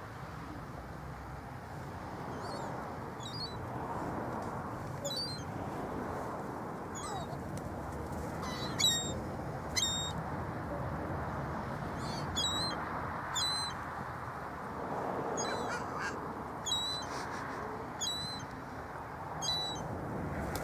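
Water birds calling: about a dozen short, sharp, high calls at irregular intervals over a steady background hiss.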